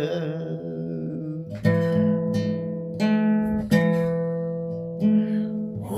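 Acoustic guitar strumming four chords and letting each one ring, as a short instrumental fill between sung lines.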